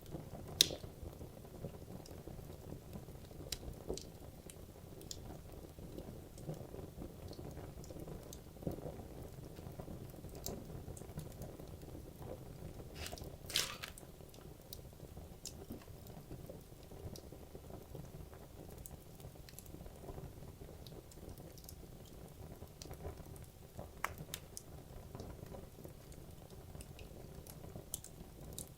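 Wood logs burning in a fireplace: a low, steady rumble of flame with scattered crackles and pops, the sharpest about half a second in and a longer crackle a little before the middle.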